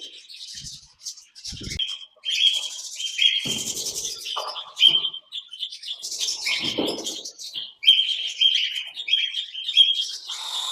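Aviary parrots chirping continuously in quick, high, short calls, with a few brief noisy rustles among them.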